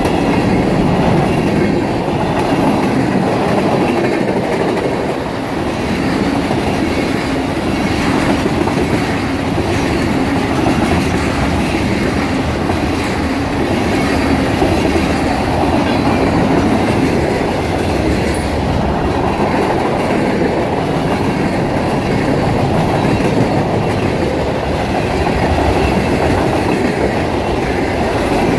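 CSX freight train's covered hoppers and tank cars rolling past: loud, steady rumble and clatter of steel wheels on the rails.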